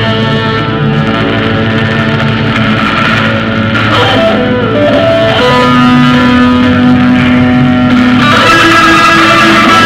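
Guitar-led rock music, electric guitar playing sustained notes over a bass line, growing fuller and brighter near the end.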